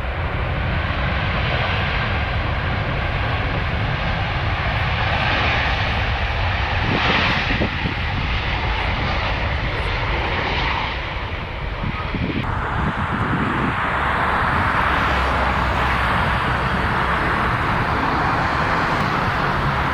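Airliner's engines running steadily at close range, a continuous jet-like rush, with a sudden change in its tone about twelve seconds in.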